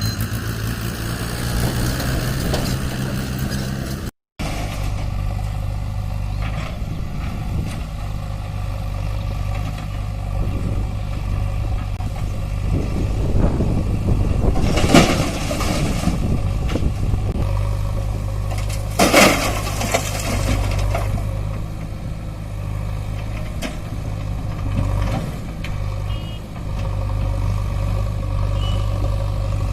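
Heavy diesel engine running steadily, with two short noisy rushes about 15 and 19 seconds in and a brief dropout about four seconds in.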